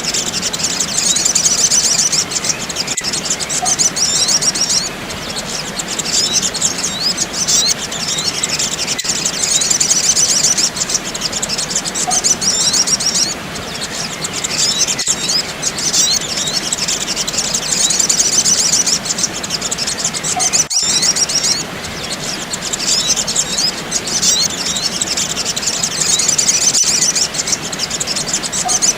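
Looped recording of a sogok ontong (little spiderhunter) calling: bouts of rapid, high-pitched chirps about four seconds long, repeating every six seconds or so over a steady hiss, with a faint click at each repeat. It is a lure call used to draw in and calm small birds.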